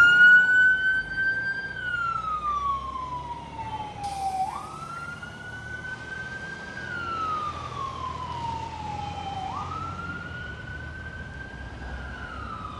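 Fire engine siren wailing through three cycles. Each cycle jumps quickly up in pitch, holds high briefly, then slides slowly down, about every five seconds. It is loudest at the start and grows fainter over the first few seconds.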